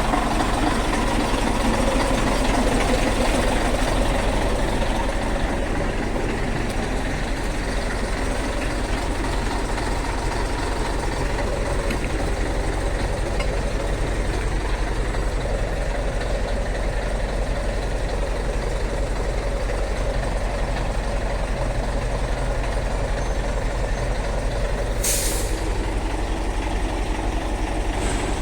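Scania truck engine running steadily on the move, with one short, sharp hiss of released air from the air brakes near the end.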